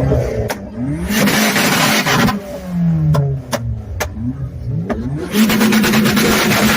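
A car engine being revved repeatedly, its pitch rising and falling with each blip of the throttle, with two longer loud stretches of full revs and a few sharp pops in between.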